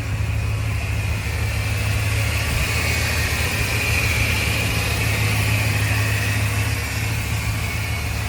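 1994 Ford F-150 SVT Lightning's 5.8-litre V8 running at a steady, even speed, with a low hum.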